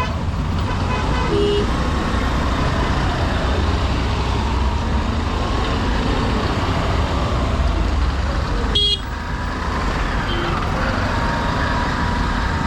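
Honda SP125 single-cylinder engine running steadily under way, with traffic around it. Other vehicles' horns toot briefly, once about a second and a half in and once sharply near nine seconds.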